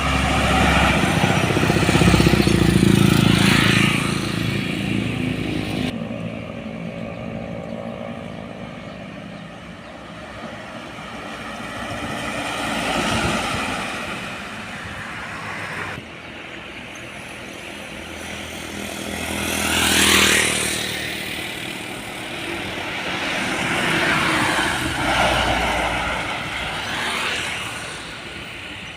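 Heavy trucks driving past on a road one after another, engine and tyre noise swelling as each approaches and fading as it goes. The sound changes abruptly twice.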